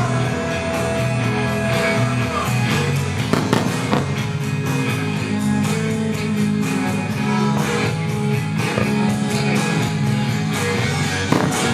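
Guitar-based rock music playing loudly over a show's loudspeakers, with several firework bursts cracking over it.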